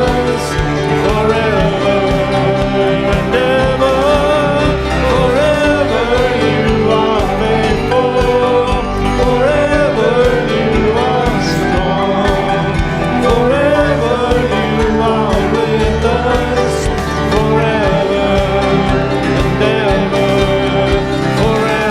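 Worship music: voices singing a praise song over a steady instrumental accompaniment.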